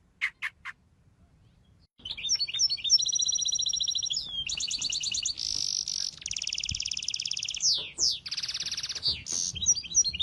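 Small birds chirping: a few short calls, then after about two seconds a fast, busy run of high trills and chattering notes, with a quick downward-sliding call near the end.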